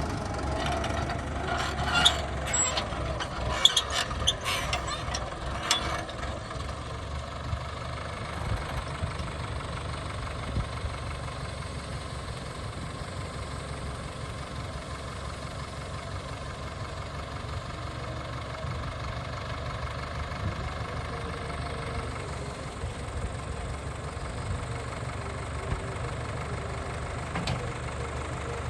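Tractor diesel engine running steadily at a low idle, with a cluster of sharp knocks in the first few seconds.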